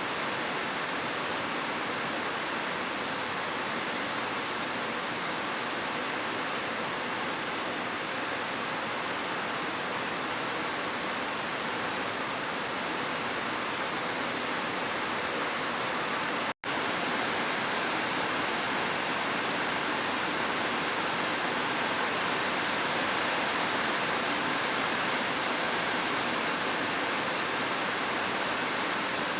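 Heavy rain falling in a steady, even hiss. About two-thirds of the way through, the sound cuts out completely for a split second and then carries on.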